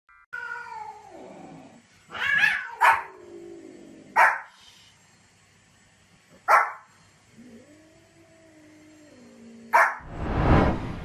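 A dog vocalising: long calls that slide down in pitch, near the start and again late on, with short sharp barks a few seconds apart in between.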